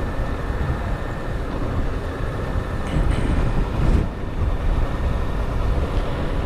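Wind rush and the low hum of a Honda CBR1000RR's inline-four engine, heard through a microphone inside a full-face helmet while riding at low speed. The wind noise swells about three to four seconds in.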